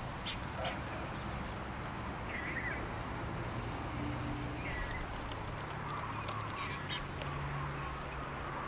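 A bird calling in short repeated notes, one every two seconds or so, over a steady outdoor hiss and a faint low hum.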